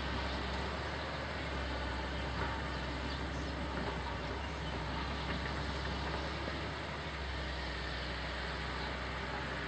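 Heavy diesel machinery running steadily: a low, even engine drone under a constant noisy hum.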